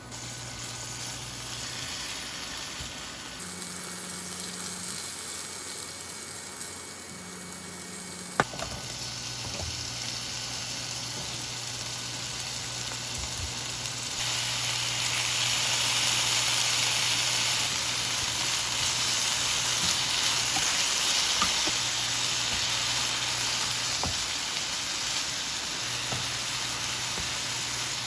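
Food frying in a pan, a steady sizzling hiss that grows louder about halfway through, with a single sharp click about eight seconds in.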